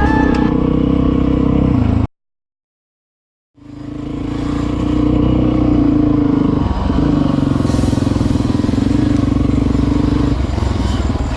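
Dirt bike engine running steadily while riding. About two seconds in the sound drops to dead silence for a second and a half, then the engine fades back in.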